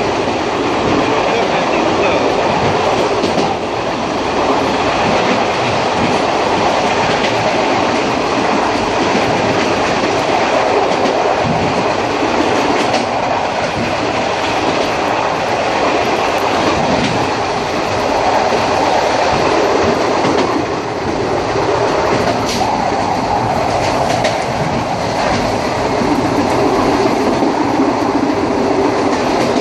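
Passenger train running, heard from inside the carriage: a steady, loud running noise with a few faint clicks.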